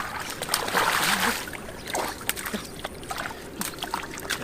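Shallow muddy floodwater splashing and sloshing as someone wades and grabs for fish by hand, with a louder splash about a second in and scattered small splashes and drips.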